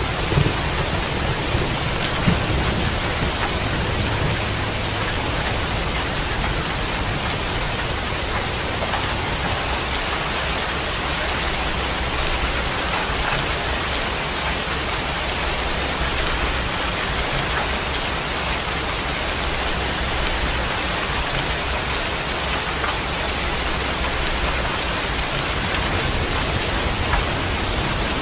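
Steady rain falling, an even dense hiss with no let-up. The low rumble of a thunderclap dies away at the start.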